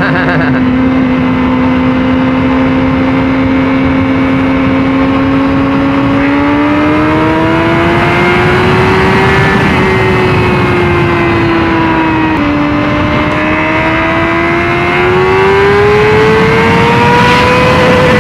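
Honda CBR600RR's inline-four engine running under way, holding steady revs, then pulling higher. The pitch drops suddenly about twelve seconds in, an upshift, and climbs again near the end, with rushing wind noise underneath.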